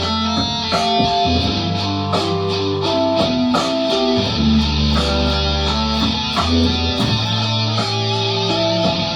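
Instrumental passage of a rock song: electric guitar playing a moving line of notes over sustained bass notes and a steady drum beat, with no singing.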